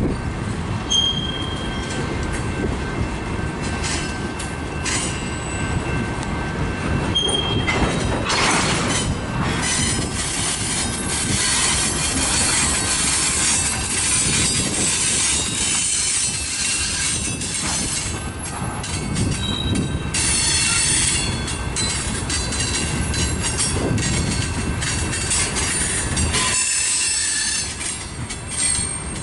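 Freight train cars, tank cars and boxcars, rolling past: a steady rumble of steel wheels on the rail with clicking over the joints, and a thin high-pitched wheel squeal that comes and goes.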